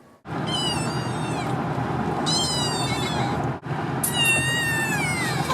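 Kitten meowing: three high-pitched calls, each sliding down in pitch, the last one the longest, over a steady background noise.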